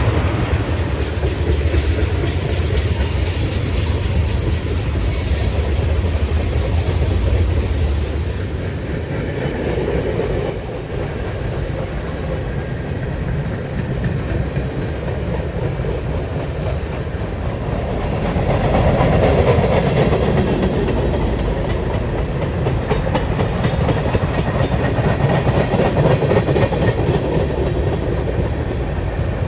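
Long freight train of grain hoppers and mixed manifest cars rolling past, its wheels clicking and clattering over the rail joints. A heavy low rumble fills the first eight seconds or so, then eases to a steady rolling rattle.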